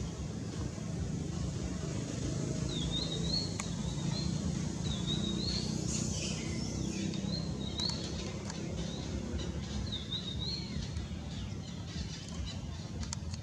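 A small bird sings repeated short, high warbling chirps, in phrases from about three seconds in until near the end, over a steady low outdoor rumble.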